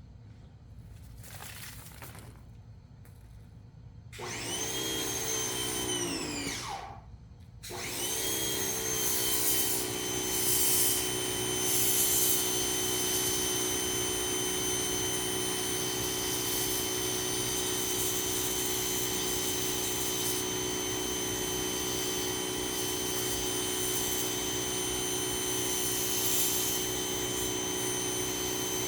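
Ryobi 2000 psi electric pressure washer starting up with a rising whine about four seconds in. It winds down and stops briefly near seven seconds, then starts again and runs steadily with a hiss over its motor hum.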